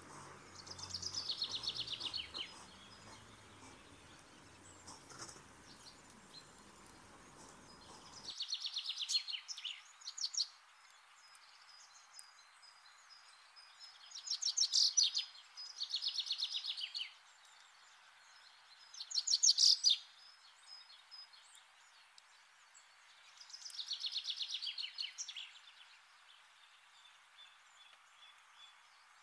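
A small bird calling in short trills that fall slightly in pitch, about a second each, repeated six times a few seconds apart over a faint steady hiss.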